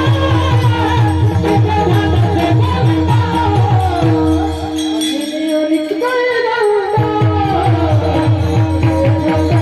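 Male kirtan singer singing a devotional melody over a steady held drone and a fast, even drum beat. The drum stops for about two seconds near the middle and comes back in.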